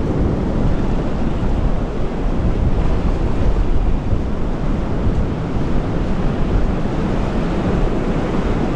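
Strong wind buffeting the microphone, with surf breaking and washing in behind it; the steady low rumble of the wind covers everything else.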